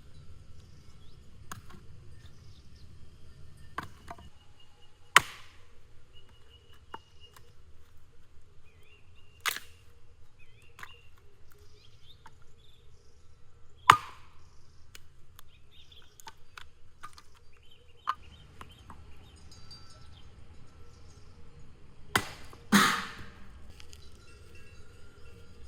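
A few sharp knocks or cracks several seconds apart, the last two close together, over faint outdoor ambience with small clicks.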